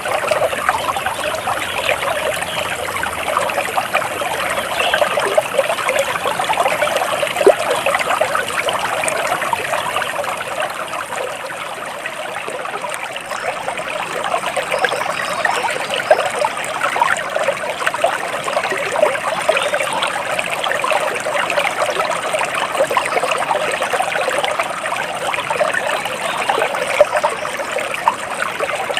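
Flowing stream water trickling steadily, a dense patter of small splashes with no let-up.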